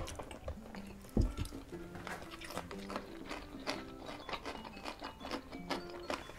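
Close-miked chewing and mouth clicks of people eating rice and fried duck by hand, over soft background music with a simple melody. A dull low thump about a second in.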